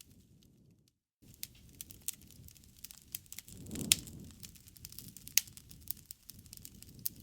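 Wood fire in a fireplace crackling: irregular sharp pops and snaps over a low, even noise of the flames, with the loudest pops about four and five and a half seconds in. The sound drops out for about a second near the start.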